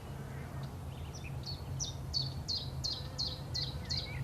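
A songbird calling a run of about eight short, high, downward-slurred notes, roughly three a second, starting about a second and a half in, over a steady low hum.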